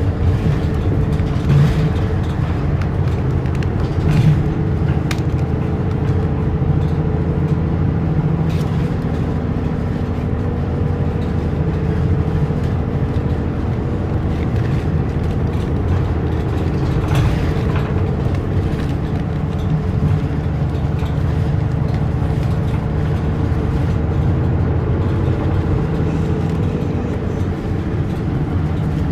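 Route bus engine and drivetrain running steadily at road speed, heard inside the passenger cabin, with road rumble and a couple of light knocks about 1.5 and 4 seconds in.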